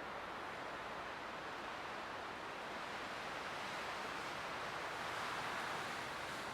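Light wind blowing steadily, swelling to a gentle gust about five seconds in and then easing off.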